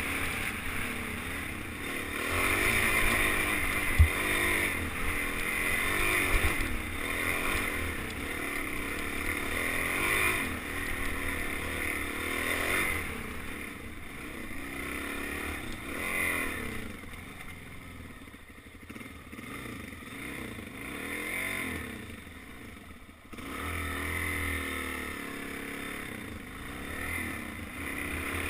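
Suzuki DR-Z400 dirt bike's single-cylinder four-stroke engine revving up and down over and over while riding, with one sharp knock about four seconds in. It is quieter for a few seconds past the middle.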